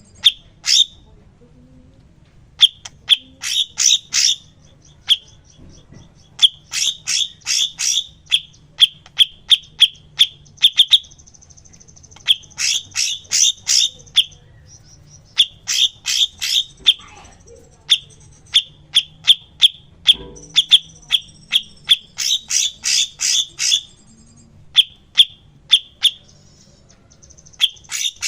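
Cucak cungkok singing: loud, sharp, rapid runs of clear high notes, a few to a dozen strokes per phrase, with short pauses between phrases.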